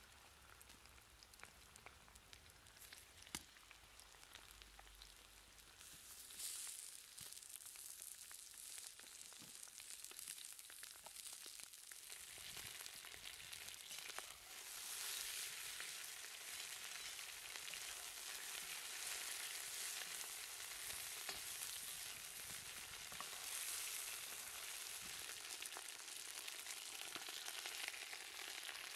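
Chicken drumsticks and sliced red onions sizzling in hot oil in a wok, a steady hiss that grows louder about six seconds in and again near the middle as the meat takes the heat.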